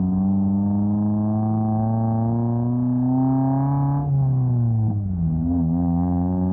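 The 2000 Honda Civic's D-series four-cylinder engine pulls under acceleration, its pitch climbing steadily. About four seconds in the pitch falls sharply, dips once more a second or so later, then holds steady.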